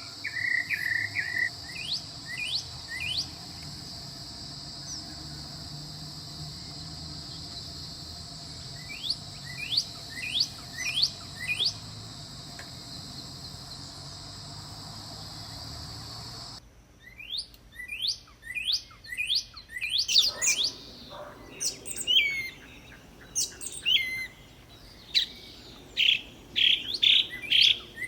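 Small birds chirping in quick, short rising chirps over a steady high insect drone. About sixteen seconds in the drone stops abruptly, and the chirping becomes denser and louder.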